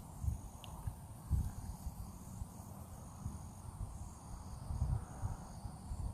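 Insects trilling in short repeated bursts, a high buzzing that switches on and off every half second or so, over a steady faint high drone. Irregular low buffeting on the microphone runs underneath.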